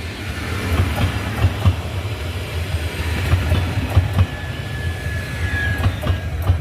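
A train rolling past with a steady low rumble and wheels clacking irregularly over rail joints; a faint high whine sounds for a few seconds in the middle.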